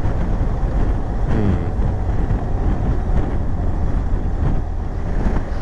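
Steady rush of wind and road noise heard from inside a BMW GS Carbon motorcycle helmet at speed, with its chin vent open, mixed with the BMW R1200GS's engine running.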